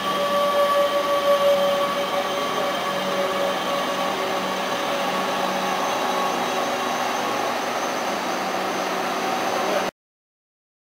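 Electric train running through the station: steady rolling rail noise with a hum of several steady tones that fades over the first few seconds. The sound cuts off abruptly about ten seconds in.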